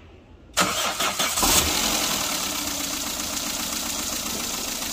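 Toyota Etios four-cylinder 16-valve petrol engine cranked by the starter about half a second in, catching within a second and settling into a steady idle. This is its first start after the timing chain was set.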